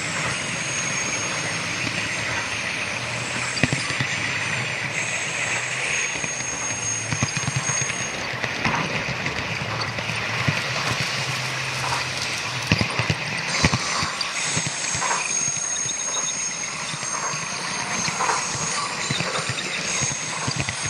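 Model train running on layout track: a steady rolling noise with a high motor whine that comes and goes, and irregular clicks of the wheels over rail joints.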